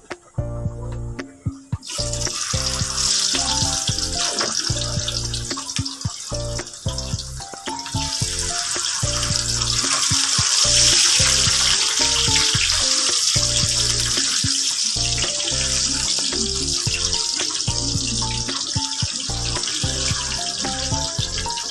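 Water running steadily from a tap, starting about two seconds in, over background music with a steady beat.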